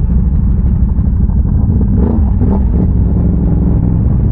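Big-bore Can-Am Renegade ATV's V-twin engine running steadily under way, a heavy low rumble with no clear revs up or down.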